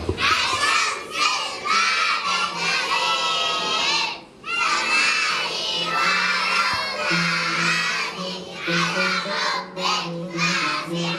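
A group of young children singing an Arabic song at the top of their voices, close to shouting, over backing music with steady low held notes.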